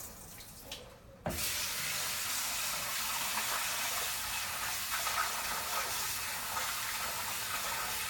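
Hot water from a kitchen tap running steadily into a container of rice. The tap is turned on about a second in. This is the rice being rinsed before cooking.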